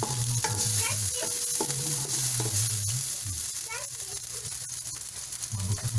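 Pork pieces sizzling in a hot metal wok, a continuous hiss broken by small crackles as the meat is stirred.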